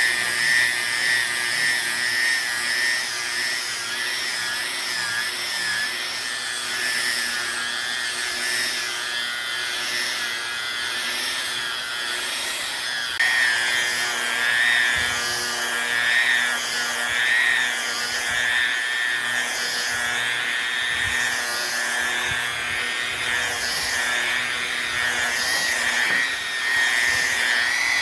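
Handheld power tool working wood: a steady high whine with a rubbing, grinding noise. It gets louder about halfway through, as the tool bites harder.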